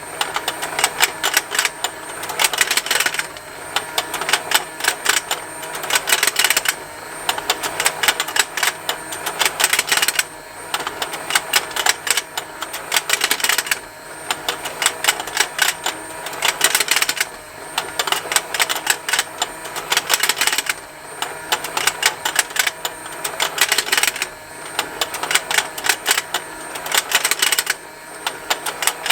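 Plastic fishing game toy running, its geared motor turning the pond with a continuous fast plastic ticking mixed with snapping plastic. Louder stretches of clatter come about every three and a half seconds.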